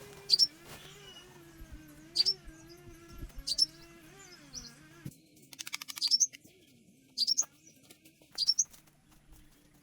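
Small birds chirping: short, sharp, high chirps about every second or two, with a quick rattling trill about six seconds in, over a faint wavering low tone in the first half.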